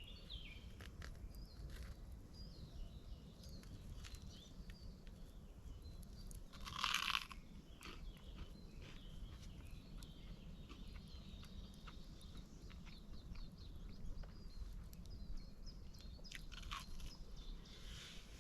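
A person eating a campfire-grilled sausage with bread: small bites and chewing crunches, with one louder crunching rustle about seven seconds in.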